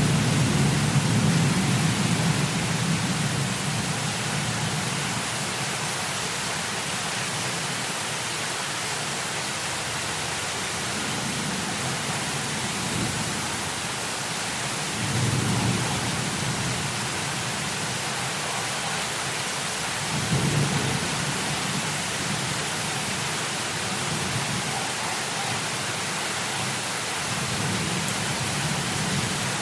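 Heavy rain, a steady hiss, with low rolling thunder rumbles that swell at the start, about halfway through, a few seconds later and again near the end.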